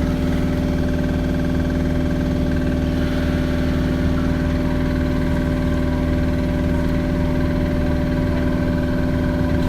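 Interior of an Osaka Metro 80 series subway car standing still, its onboard electrical equipment humming steadily with several fixed tones that cut off suddenly near the end.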